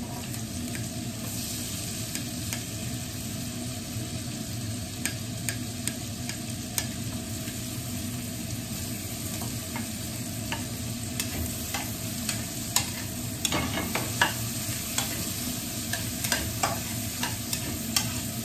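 Chopped onion and garlic sizzling steadily in a frying pan. Scattered clicks and scrapes of utensils against the pan come more often in the second half, as the onion is pushed in and stirred.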